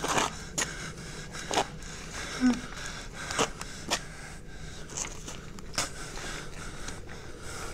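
A man's short, uneven sharp breaths and sniffs, about seven in all at irregular gaps, over a steady low background hum. A brief low sound about two and a half seconds in is the loudest.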